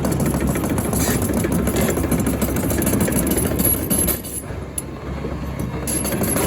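Terex TC125 hydraulic excavator's diesel engine running steadily, briefly quieter for about two seconds a little past the middle before returning to its previous level.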